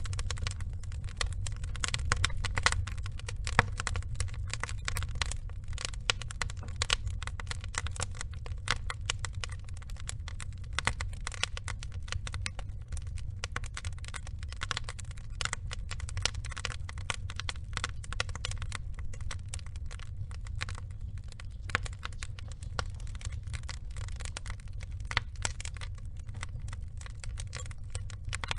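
Burning logs crackling and snapping in dense, irregular pops over a low, steady rumble of the fire.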